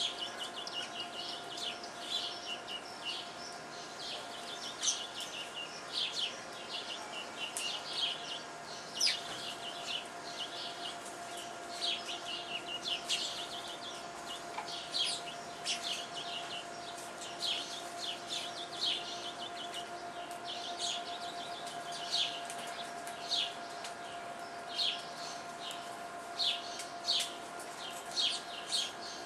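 Backyard songbirds chirping all around: many short, high chirps, often several in quick succession, over a steady faint tone.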